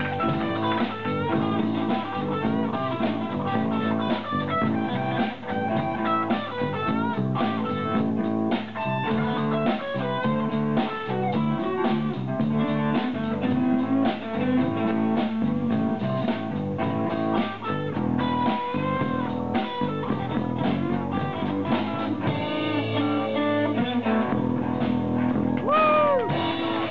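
A live rock band playing an instrumental passage: electric guitar with bass and drum kit, with a few bent guitar notes near the end.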